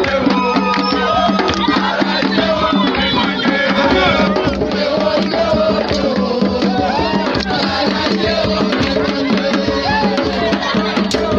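Drum-led music with many fast, dense hand-drum strikes, and voices singing and calling over it.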